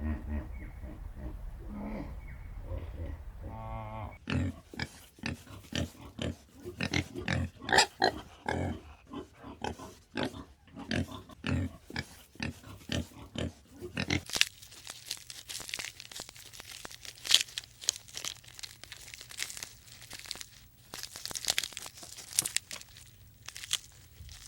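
Farm animals grunting, with many short crunching and rustling sounds. The sound changes abruptly about four seconds in and again about fourteen seconds in, the last part crisper and higher.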